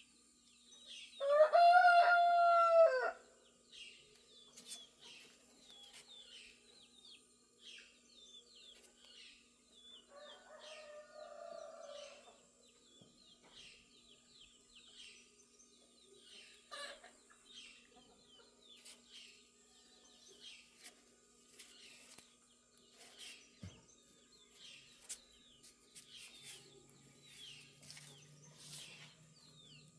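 A rooster crows once, loudly, about a second in, and a second, fainter crow comes about ten seconds in. Small birds chirp and twitter throughout.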